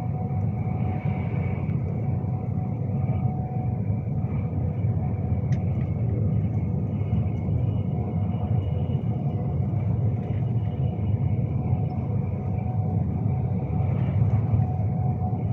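Steady running rumble inside a moving Class 390 Pendolino electric train, with a faint steady whine over it.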